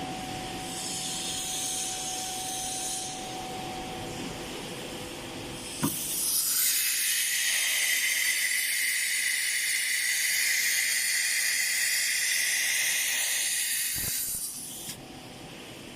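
6090 ATC CNC router's pneumatic tool changer at work: a steady machine hum with a faint tone, then a sharp click about six seconds in and a loud hiss of compressed air blowing through the spindle for about nine seconds. The hiss ends with another click near the end, the air blast of the spindle releasing and changing its tool.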